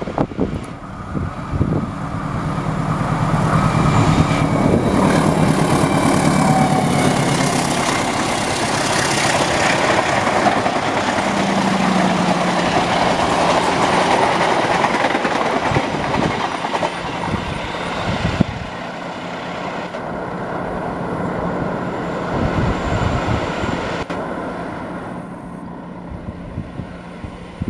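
A diesel locomotive hauling a long passenger train passes close by, its engine running, followed by the coaches' wheels clattering over the rail joints. The sound builds over the first few seconds and grows quieter about two-thirds of the way through.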